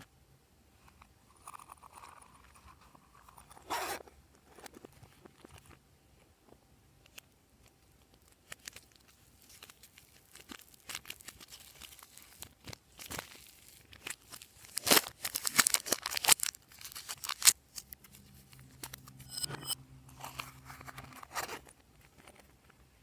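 Glossy slime being worked by hand, giving scattered sticky clicks and crackles. They come thickest and loudest in a cluster about fifteen to seventeen seconds in.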